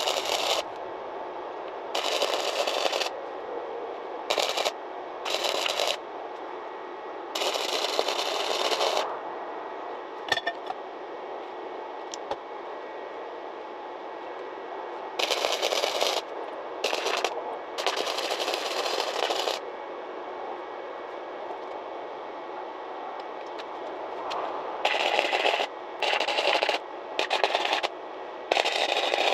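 Wire-feed (MIG-type) welder arc crackling in short stop-start bursts, each lasting from a fraction of a second to about a second and a half, with a steady hiss in the gaps. The welding is a beginner's first attempt, laying uneven tacks and globs of weld onto a broken scooter front-fork tube.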